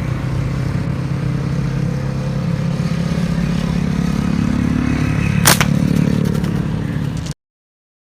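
An engine running steadily at a low, even pitch, with one sharp click about five and a half seconds in; the sound cuts off abruptly near the end.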